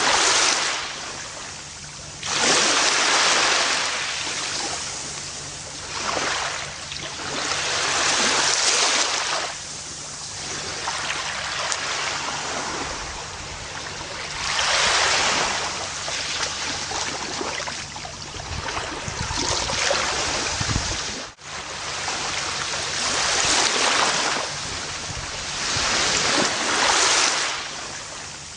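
Gentle ocean waves breaking and washing up a beach, a surge of surf every three to five seconds that swells and fades back. A split-second drop in the sound about two-thirds of the way through.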